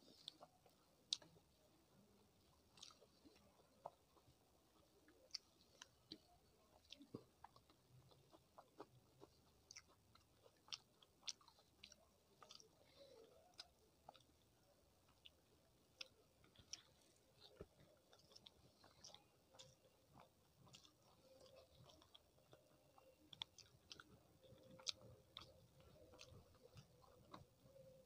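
Quiet, close-miked chewing of rice and curry eaten by hand, with many short wet mouth clicks scattered irregularly throughout.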